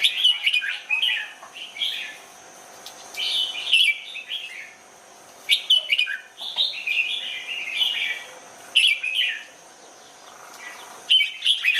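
Red-whiskered bulbul singing: about five short, quick warbled phrases, each lasting a second or two, with short pauses between them.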